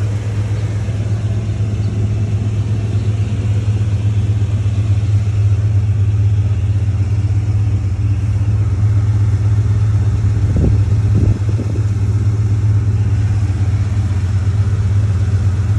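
Car engine idling steadily, a constant low hum. A couple of short knocks come about ten and eleven seconds in.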